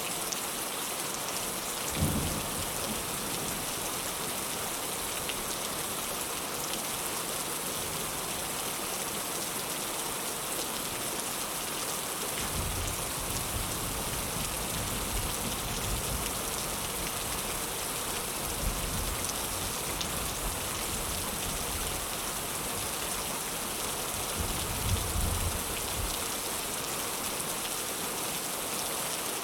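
Heavy rain falling in a steady, dense hiss, with low thunder: a short low boom about two seconds in and a long low rumble through the second half, swelling twice.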